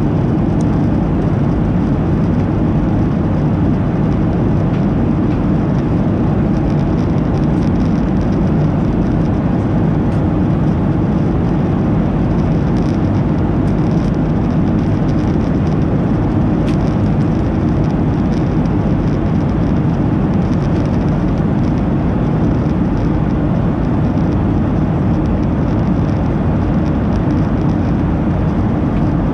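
Steady engine and airflow noise inside the cabin of a Boeing 737-800 with its CFM56 turbofans running; the level does not change.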